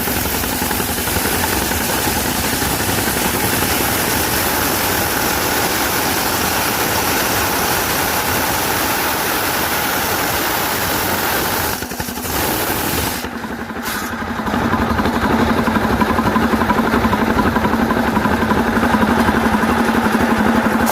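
Sawmill machinery running with an engine sound throughout. About twelve to fourteen seconds in the sound dips twice and the hissing high end drops away, leaving a steadier engine hum with a strong low tone.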